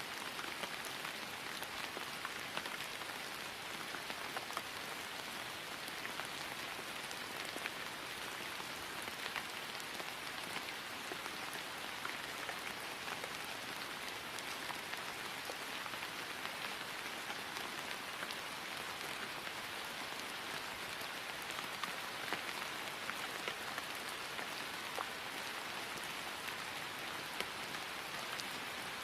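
Steady rain falling on grass: an even hiss with many small scattered drop ticks.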